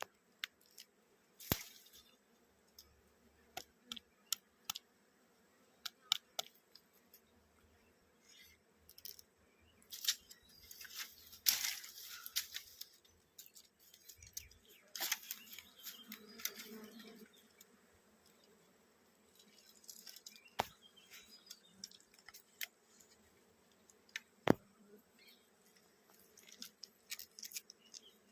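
Scattered sharp clicks and short scraping, rustling noises from close-up handling work, with quiet gaps between. A single sharp click stands out about three-quarters of the way through.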